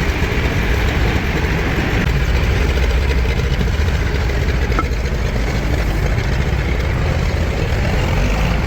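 Heavy diesel engine idling steadily, an even low rumble that does not change.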